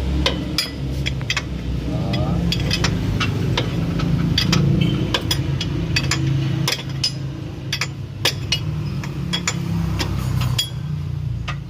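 Hand tools clinking and knocking on metal, in many short, irregular strikes, over a steady low hum.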